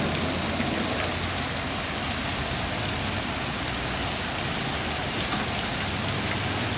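Steady heavy rain falling, an even hiss with a few faint drop ticks and a low steady hum underneath.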